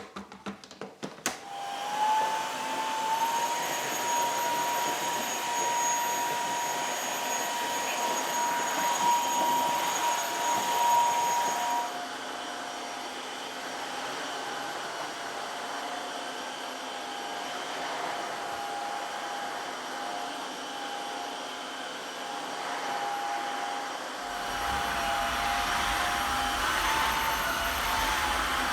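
Dreame H11 Max cordless wet-dry floor cleaner switching on after a few clicks and running with a steady whine that steps up in pitch as it spins up, while it picks up spilled pasta sauce from a hard floor. About twelve seconds in it drops to a lower, quieter tone, then rises again near the end as a low rumble joins in.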